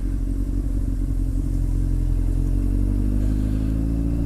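Honda X4 motorcycle's inline-four engine running steadily under way at an even cruising speed.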